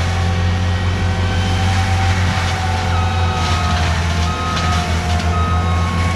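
Skid steer's diesel engine running hard and steady on a land-clearing job. From about halfway through, its reversing alarm beeps repeatedly.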